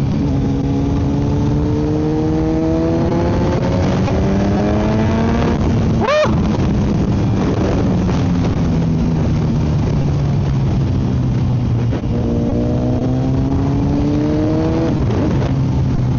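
Kawasaki Z900 inline-four with a full M4 aftermarket exhaust, heard from the rider's helmet while riding: the engine pulls up through the revs in gear, gives a brief sharp rev blip about six seconds in, and settles at a steadier speed. After a gear change about twelve seconds in it pulls up again, then eases off near the end.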